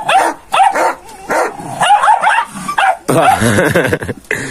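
Kangal dogs yipping and barking in a rapid string of short, high calls, several a second.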